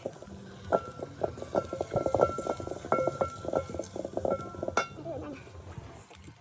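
A quick, irregular run of clinks and knocks, like metal utensils and dishes striking each other, lasting about four seconds and then stopping. Music plays underneath.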